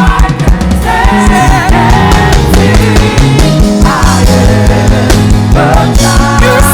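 Live worship band playing with drum kit, bass and guitar under a sung melody, at a steady beat.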